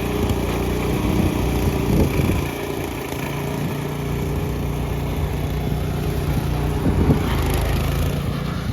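Cub Cadet lawn tractor's engine running steadily, its note changing about two and a half seconds in.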